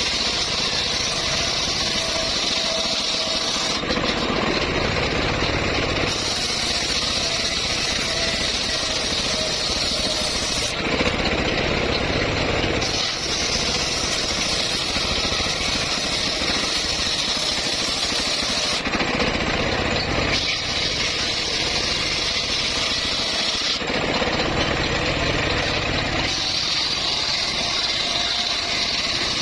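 Home-built bandsaw running and cutting teak wood: a steady, loud machine drone with a higher hiss that comes and goes in stretches of a few seconds.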